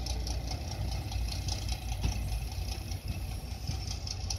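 A slow-moving train heard from aboard: a steady low engine rumble with no breaks.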